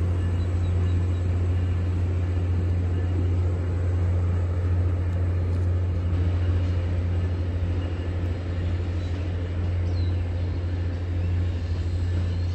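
MBTA commuter train pulling away from the station behind an F40PH diesel locomotive, heard as a low, steady engine drone that eases slightly as the train recedes.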